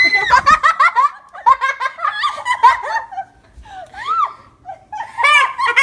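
Children laughing hard in high-pitched, rapid giggles and squeals, easing off briefly in the middle before another burst of laughter near the end.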